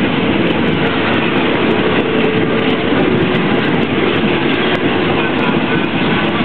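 Train running along the track: a steady, loud rumble with no breaks.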